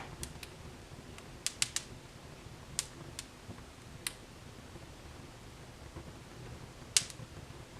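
Fire in a fireplace crackling: irregular sharp pops over a low steady rumble of the flames, with the loudest pop about seven seconds in.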